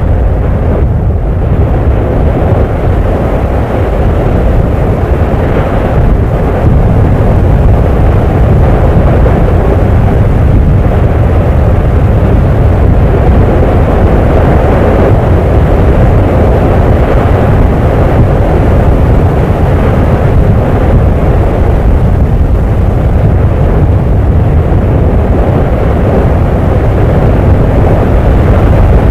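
Volcanic eruption giving off a loud, steady low rumble, with a slight rise in level about a quarter of the way in.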